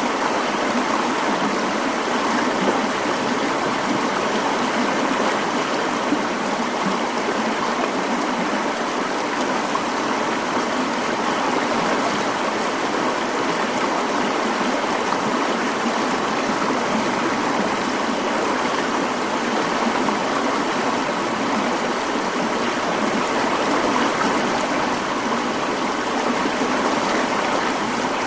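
Mountain stream flowing, a steady, even rush of running water.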